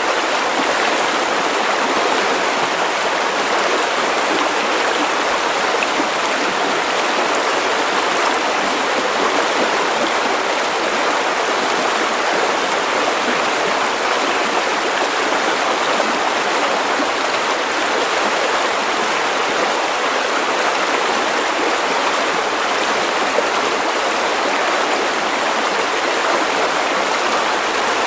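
River water flowing and rushing over stones, a steady, unbroken sound with no single splashes standing out.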